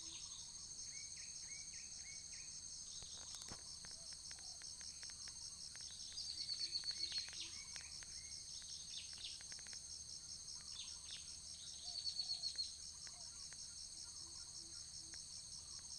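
Steady, high, pulsing chorus of crickets or other insects, with birds calling over it: a run of short chirps about a second in, and a louder trill twice, about six and twelve seconds in.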